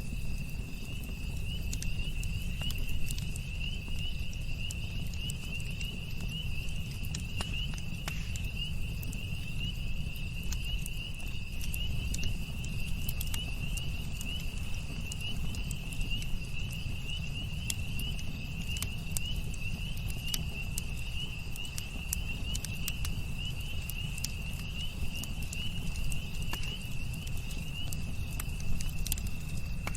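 Campfire crackling, with scattered sharp pops and a steady low rumble, over a continuous high, finely pulsing insect trill.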